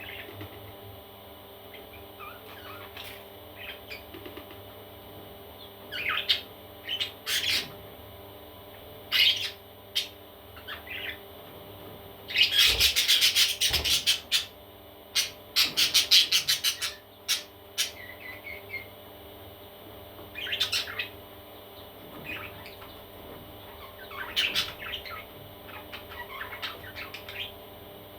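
Parrot chicks calling: scattered short chirps, with two runs of rapid, pulsed calls about halfway through that are the loudest part.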